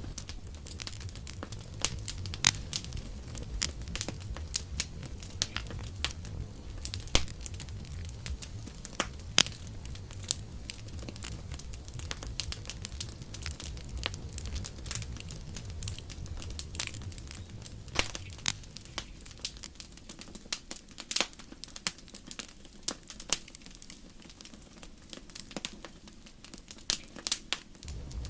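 Campfire crackling: irregular sharp pops and snaps of burning wood over a low rumble. The rumble drops away for several seconds past the middle and comes back at the very end.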